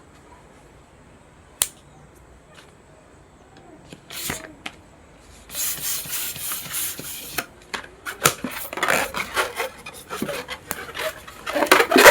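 Small rubber balloons being handled: rasping, rubbing noise in stretches with many small clicks, busiest in the second half and loudest near the end, after a single sharp click about one and a half seconds in.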